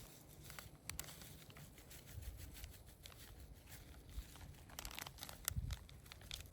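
Wood campfire crackling: scattered sharp pops and clicks at irregular intervals, coming thicker near the end.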